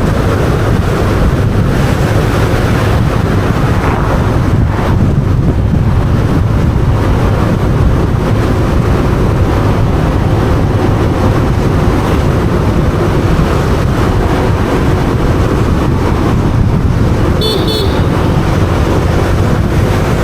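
Motorbike riding along a road: heavy wind rush on the microphone over the bike's engine and tyre noise, steady throughout. A short high beeping comes near the end.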